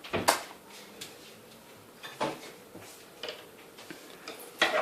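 Scattered short knocks and clicks, about half a dozen, the loudest a pair near the start and another pair near the end, with quiet in between.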